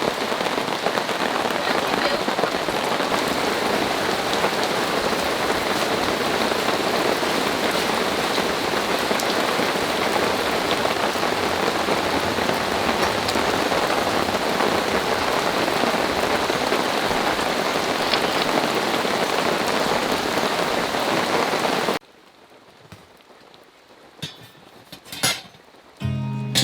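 Heavy rain pouring down in a steady downpour, stopping abruptly about 22 seconds in. A few quiet seconds with faint clicks follow, then guitar music starts near the end.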